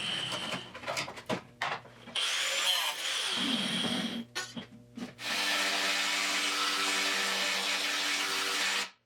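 Electric angle grinder working the rusty steel of a car frame, run in several bursts: briefly twice, then a long steady run that cuts off abruptly near the end.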